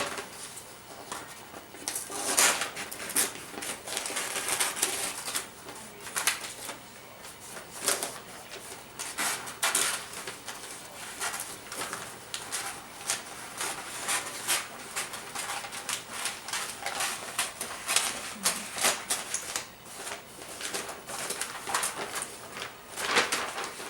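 Wrapping paper being handled, folded and creased: a run of irregular crinkling rustles, some louder than others.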